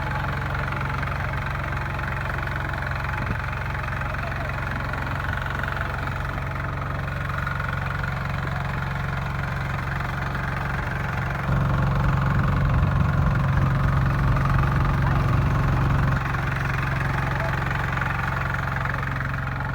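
Two-wheel hand tractor engine running steadily. It jumps louder about halfway through for about five seconds, then drops back.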